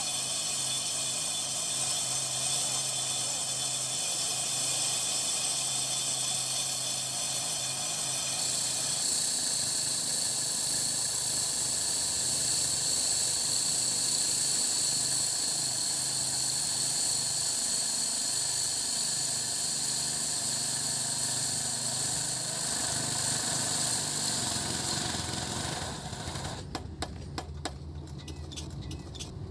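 Heavy diesel road-construction machinery running steadily, an engine hum with a steady high whine and hiss over it. Near the end the sound drops and a quick series of sharp clicks is heard.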